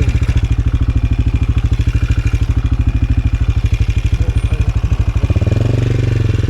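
AJP PR7's single-cylinder engine running at low revs with even pulses, about a dozen a second, then revving up a little over five seconds in.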